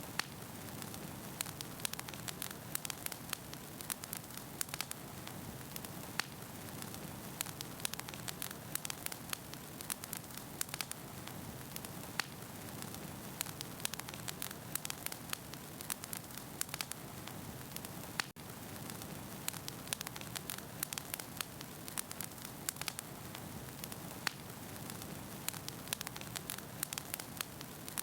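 Wood fire burning in a fireplace, with a steady hiss and rush of flames and frequent sharp crackles and pops from the burning logs. The sound drops out for an instant about eighteen seconds in.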